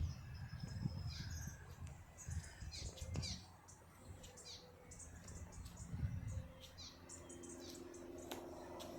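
Small birds chirping, with many short high calls coming one after another, over low rumbling thumps in the first few seconds. A faint steady hum comes in about seven seconds in.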